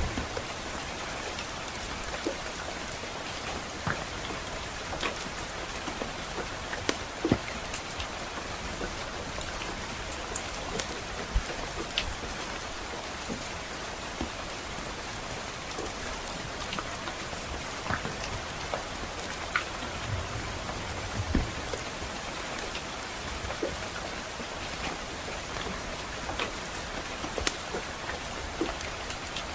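Steady soft rain hiss with scattered sharp pops and crackles from a wood fire in a fireplace, coming at irregular moments.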